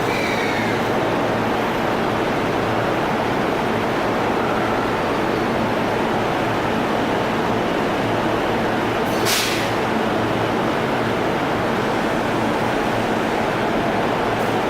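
JR E231-series commuter train on the Sōbu Line, heard through a steady rush of heavy typhoon rain. A faint falling whine comes in the first second. A brief sharp hiss comes about nine seconds in.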